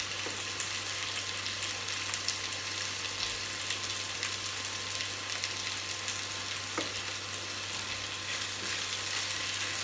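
Potato chunks and whole garlic heads sizzling in a pot, seared on one side before being turned, with a steady crackle and a couple of light knocks as a wooden spoon stirs them.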